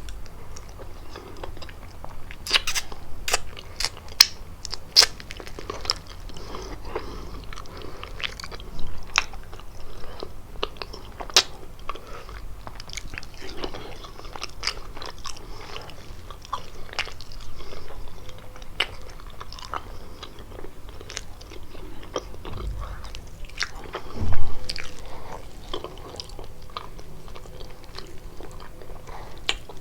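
Biting into and chewing kalaj, a walnut- and cheese-filled pastry: crisp crunches and mouth clicks at irregular intervals over steady chewing, with one louder thump about three-quarters of the way through.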